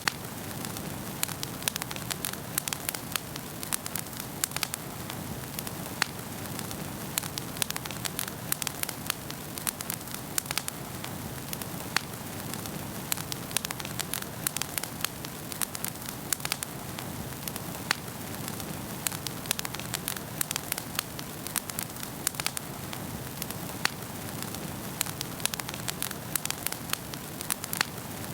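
Wood fire crackling in a fireplace: a steady hiss of burning with frequent sharp snaps and a few louder pops scattered throughout.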